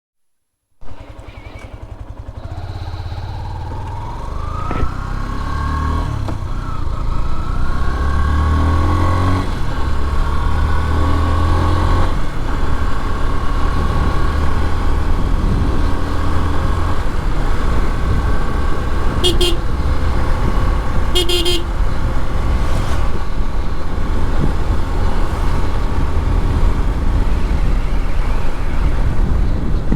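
Yamaha FZ-S motorcycle engine accelerating, its pitch climbing through the gears over the first dozen seconds, then running steadily at speed. A vehicle horn honks twice, about two seconds apart, around two-thirds of the way through.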